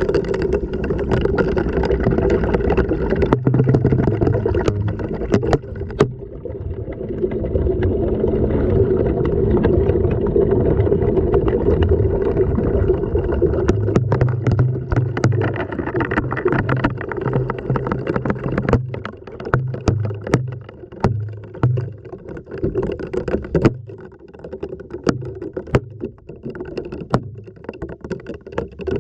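Washing machine running, heard from inside the drum: water sloshing and churning over a steady motor hum, with frequent sharp knocks as the camera tumbles against the drum.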